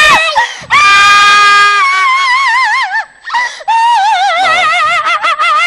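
A high-pitched, drawn-out wailing voice: several long held cries with a strongly wavering pitch, broken by short gaps.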